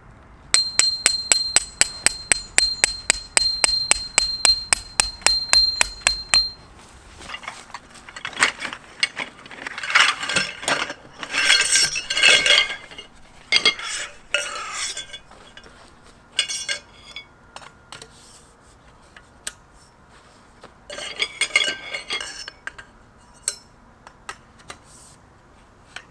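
Rapid metal-on-metal hammer strikes, about five a second for some six seconds, with a steady ringing tone: a steel tent peg being driven into the ground. After that come irregular clattering and knocking of gear being handled.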